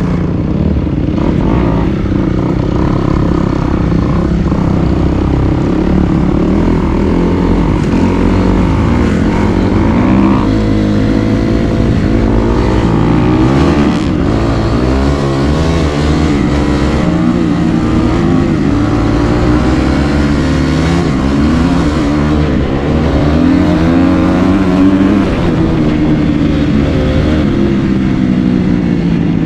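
Dirt bike engine running under way, its revs rising and falling again and again with the throttle and gear changes.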